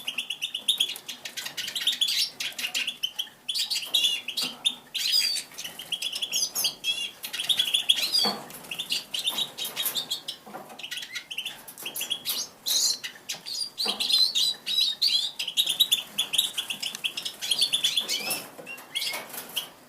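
Pet songbirds chirping in quick, busy runs of high notes, with bursts of wing flapping and small sharp clicks in between.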